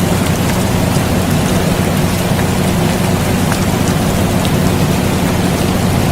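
Steady rain with scattered drop ticks, mixed with the constant low hum and rush of an air conditioner running.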